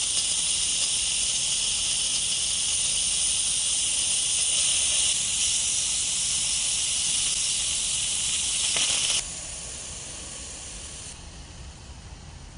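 Steam hissing steadily out of an Instant Pot's pressure release valve as the pressure is let off by hand. About nine seconds in the hiss drops off suddenly, and a fainter hiss trails on, stepping down again near the end.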